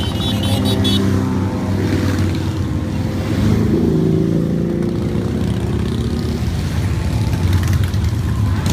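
A steady stream of motorcycles riding past one after another. Their engines run together in overlapping notes that shift in pitch as each bike goes by.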